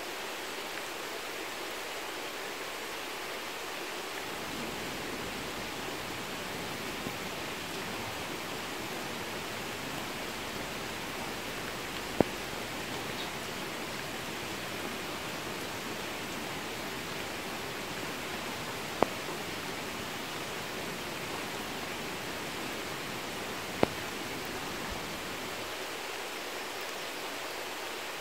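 Steady rain falling on a vegetable garden, an even hiss, with three sharp taps standing out several seconds apart.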